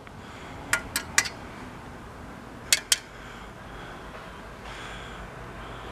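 Light metallic clicks from the metal parts of a vintage bicycle being handled: three in quick succession about a second in, then two more a little under three seconds in.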